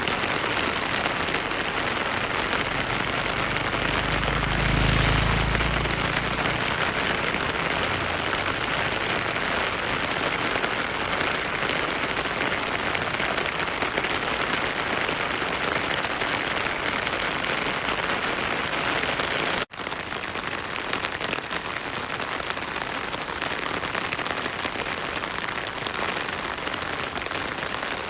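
Heavy rain falling steadily, with a low rumble swelling and fading a few seconds in. The sound cuts out for an instant about two-thirds of the way through.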